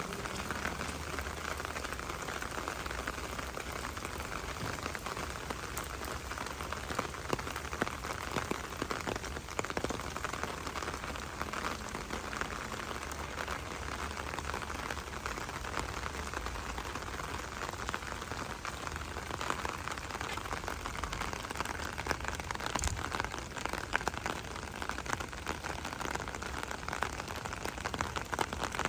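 Steady rain falling: an even hiss dense with the small ticks of individual drops, unchanging throughout.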